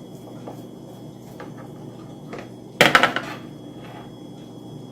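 Knife and dishes clinking while a slice of cake is cut and plated, with a few light taps and one louder ringing clatter about three seconds in.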